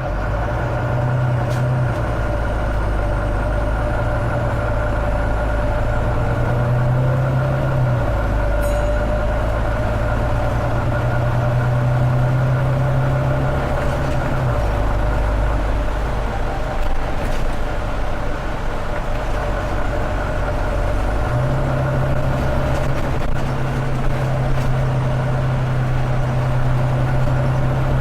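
Volvo B9TL double-deck bus's diesel engine running under way, its low note shifting in steps every few seconds, with a thin high turbo whistle rising slowly over it.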